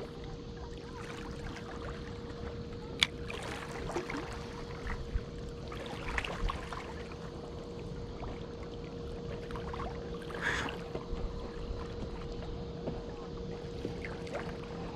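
Steady low rush of water with a constant faint hum, broken by a sharp click about three seconds in and a few small taps and rustles.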